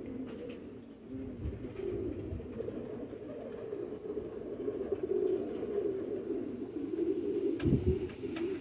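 Domestic pigeons cooing together in a continuous low, warbling chorus, with a brief low thump near the end.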